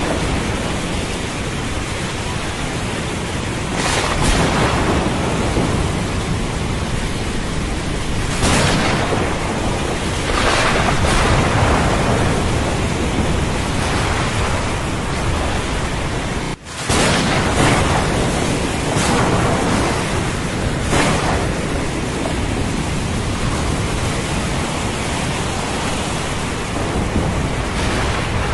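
Steady heavy rain with thunder rumbling, swelling louder every few seconds. The sound cuts out for a split second about two-thirds of the way through, then comes straight back.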